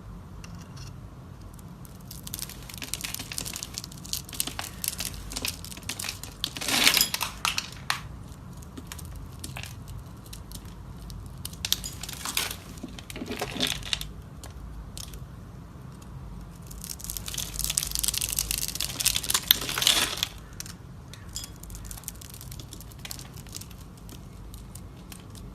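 Knife cutting through a block of soap, a dry crunching and crackling. It comes in three long passes, each with a louder crack.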